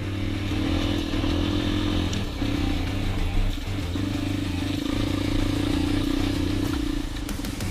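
Dirt bike engine running at a fairly steady pitch while riding.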